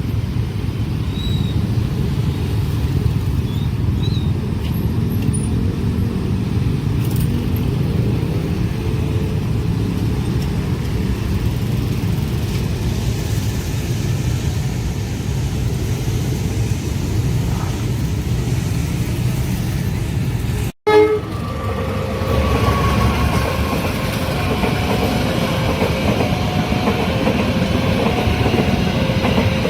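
Train passing a level crossing with a steady low rumble. After an abrupt cut about 21 seconds in, a level-crossing warning signal repeats a two-note alarm over further train noise.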